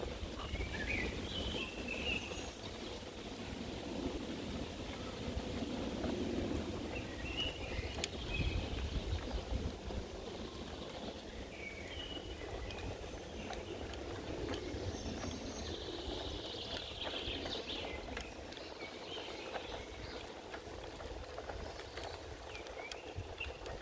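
Park ambience: scattered short bird chirps, with a steady low rumble underneath.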